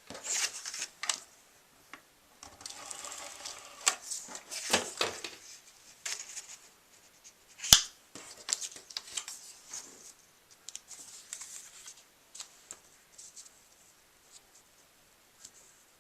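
Paper being handled and pressed down onto a card mat: light rustles, scrapes and taps, with one sharp click about halfway through.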